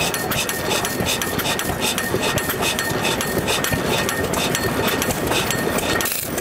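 Old hit-and-miss stationary engine running with a quick, even beat of clicks several times a second.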